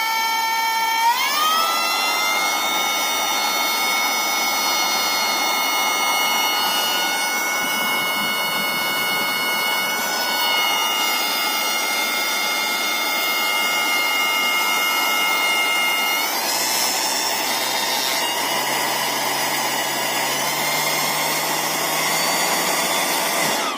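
Brushless DC motor spinning a CPU-fan blade as a homemade air jet, a high whine over a rush of air. Its pitch climbs about a second in, holds steady, steps up again about two-thirds of the way through, then stops suddenly.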